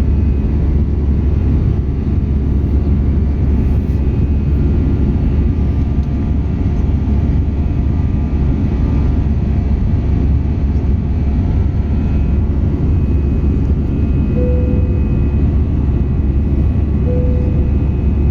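Steady cabin roar of an Airbus A319-111 airliner in flight: the drone of its CFM56 turbofan engines and the rush of air around the fuselage, heard from inside the passenger cabin. Two short, faint tones sound in the last few seconds.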